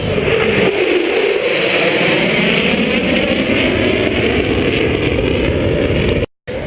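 Loud, steady aircraft engine noise from a plane passing at an air show, its pitch sagging slightly in the first couple of seconds. The sound cuts out completely for a moment near the end.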